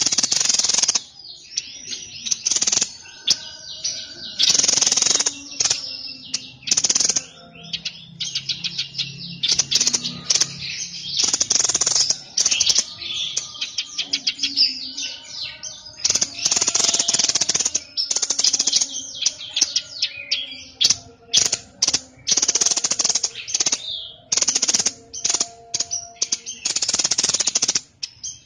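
Songbird known to Indonesian bird keepers as the 'sniper' bird singing in full, continuous song. Loud harsh bursts about a second long alternate with fast chattering runs of notes and short clear whistles.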